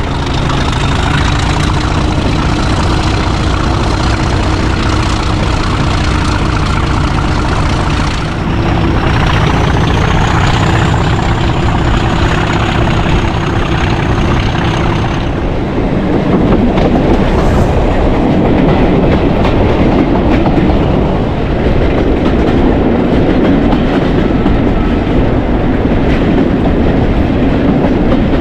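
English Electric Class 37 diesel locomotive D6700, its 12CSVT V12 engine working as the train runs along the line, with a steady high whistle over the engine noise. The sound changes abruptly about eight seconds in and again about halfway through, where the whistle drops away and a deeper rumble takes over.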